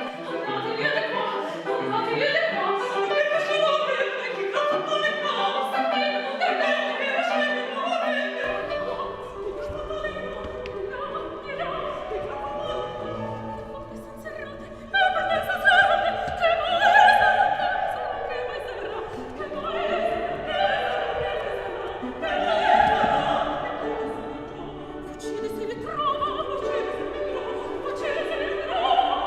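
Opera singing with classical accompaniment. The sound changes abruptly about eight seconds in, and strong held sung notes follow in the second half.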